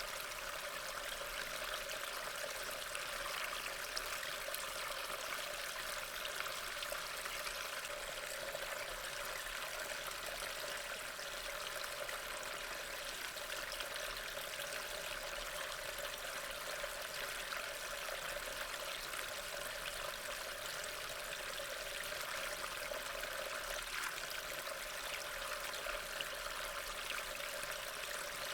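Steady rain: an even hiss with a fine patter of drops, unchanging.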